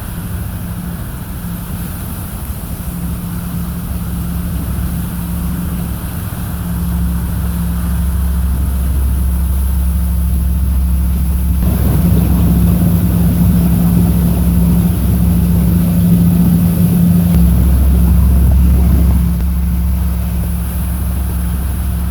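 Motorboat engine running steadily under way, with a steady low hum and wash noise. It grows louder about halfway through and eases off again near the end.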